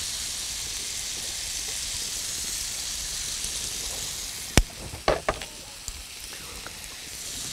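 Diced onions and smoked ham sizzling steadily in a hot frying pan, with one sharp click about four and a half seconds in and a few lighter taps just after.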